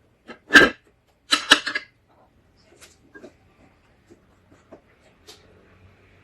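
Close-miked eating of balut: two loud, short mouth-noise bursts in the first two seconds, then a scatter of small, quiet chewing clicks.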